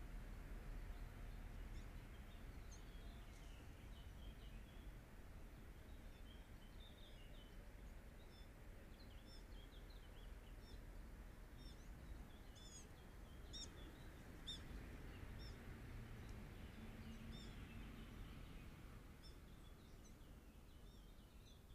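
Faint birdsong: scattered short, high chirps and calls, thickest about halfway through, over a steady low background rumble.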